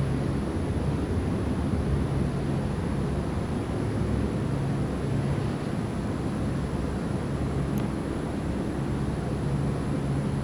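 Strong thunderstorm wind blowing in gusts, a steady low rumble with a low hum that comes and goes.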